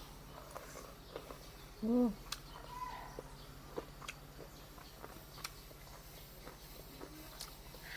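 Eating at close range: scattered small clicks and taps of chewing and utensils, with birds chirping in the background. About two seconds in comes a brief low voiced sound, the loudest thing here.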